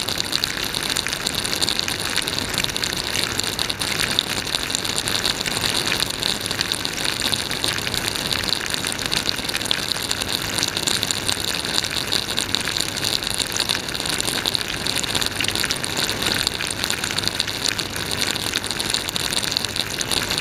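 Water spraying and splashing inside a running dishwasher, heard from within the tub, over the hum of its circulation pump: a steady, even rush with no breaks.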